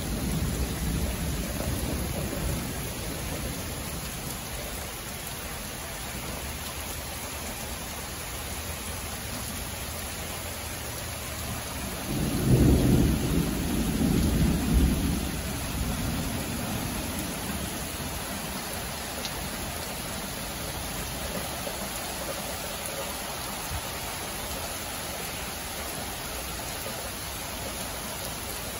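Steady rain falling, with a roll of thunder rumbling low for about four seconds starting twelve seconds in; the tail of an earlier rumble fades out at the start.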